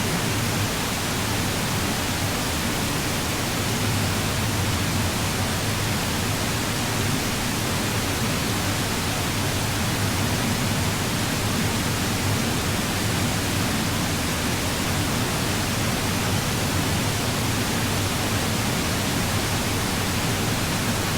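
Hooker Falls, a waterfall on the Little River, rushing in a steady, unbroken roar of falling water heard at close range.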